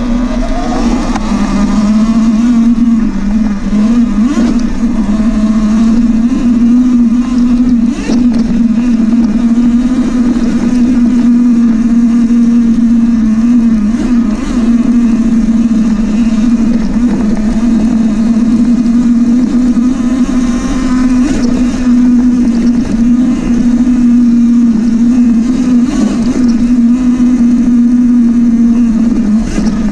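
Dirt bike being ridden along a rough trail: a loud, steady drone from the bike with the odd sharp knock from the ground.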